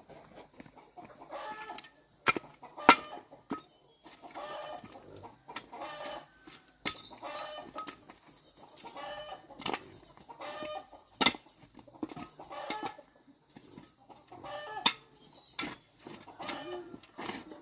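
Chickens clucking in short repeated calls, with a few sharp knocks now and then, the loudest about three seconds in and again near the middle.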